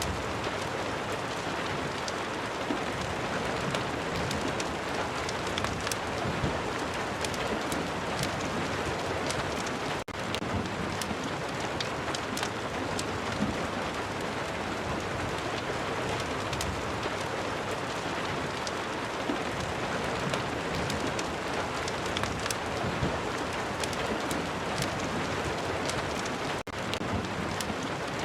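Steady heavy rain mixed with a crackling fireplace, many sharp little crackles scattered through a dense hiss. The sound dips out very briefly twice.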